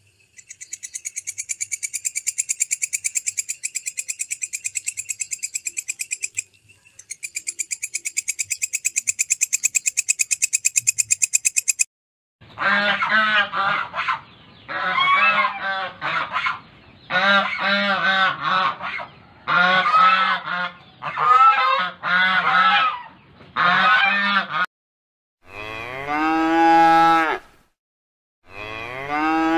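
A katydid trills in a rapid, high, pulsed buzz, with a brief break about six seconds in. Swans then honk in a run of repeated bouts of calls. Near the end a cow moos twice in long, low calls.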